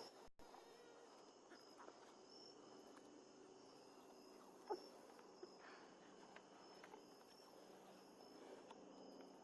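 Near silence with faint, steady insect chirring high in pitch, and one small soft knock about halfway through.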